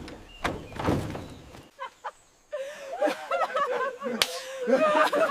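A few sharp slaps or knocks, then, after a short pause, people laughing and chuckling.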